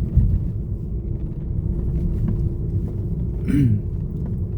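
Steady low rumble of a car driving slowly, heard from inside the cabin, with a faint steady hum running through it. About three and a half seconds in there is a brief voice-like sound.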